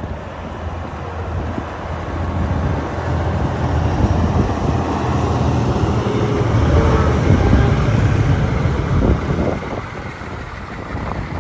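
Cummins diesel engine of a 1988 Ford L9000 grain truck running, swelling louder through the middle and easing off near the end.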